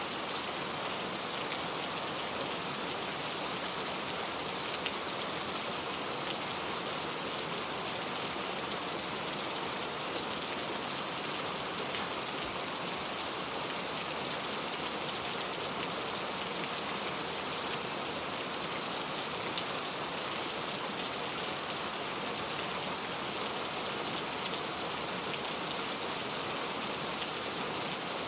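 Steady rain falling: an even hiss with many small, sharper drop ticks scattered through it, unchanging throughout.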